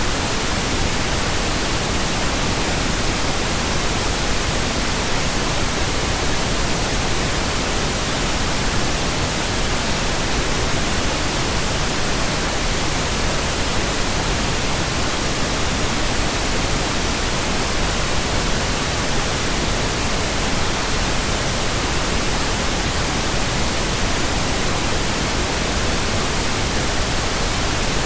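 Steady, unchanging pink noise: an even hiss with no rhythm, tones or events.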